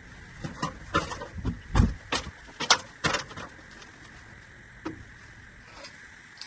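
Drain pipe and fittings knocking and clunking as they are handled and pushed together: a quick run of knocks over the first few seconds, then a single knock about five seconds in.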